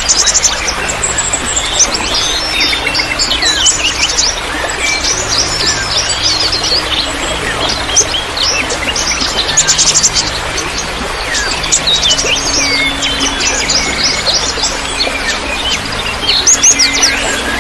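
Many small songbirds chirping and trilling together in quick, overlapping calls, over a steady trickle of water.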